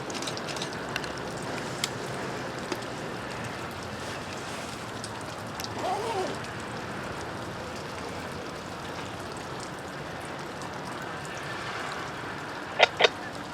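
Steady rain falling, a constant hiss. Near the end come two very short, sharp, loud sounds a fraction of a second apart.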